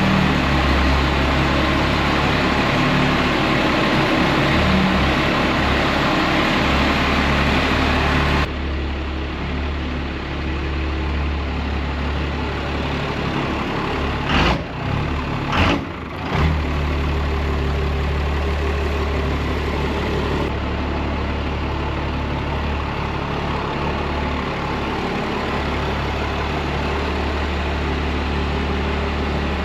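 Pickup truck engine idling steadily, with two sharp knocks about halfway through.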